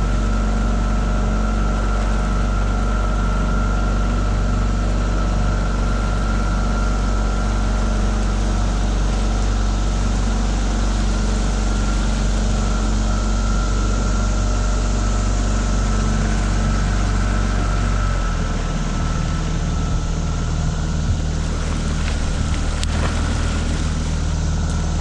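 Tohatsu 9.8 hp four-stroke outboard motor running steadily, pushing a small V-bottom boat along. About three-quarters of the way through, the engine note drops and changes as the motor is eased back.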